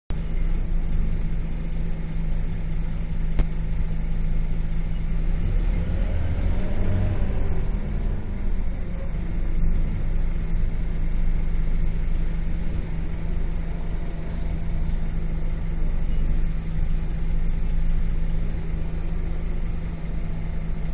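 Diesel engine of a Scania K230UB city bus running steadily under way, its note rising and then falling once about six to eight seconds in.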